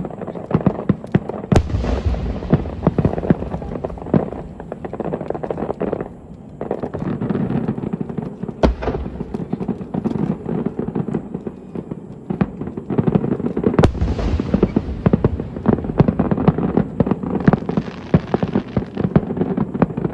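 Fireworks display: dense crackling from many small bursts, with heavy booms of larger shells about a second and a half, nine seconds and fourteen seconds in.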